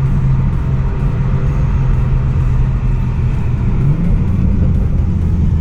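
BMW 340i's B58 turbocharged inline-six engine and exhaust (cattless downpipe, exhaust valve open in Sport Plus) running steadily while driving, a deep even drone whose pitch shifts about four seconds in.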